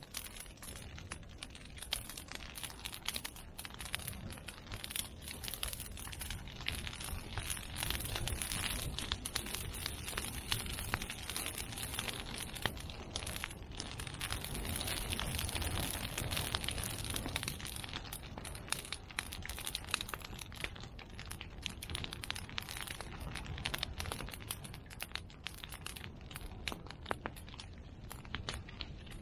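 Large open bonfire of cut medake bamboo and chestnut prunings burning hard: continuous dense crackling with frequent sharper pops over a low rumble of flame.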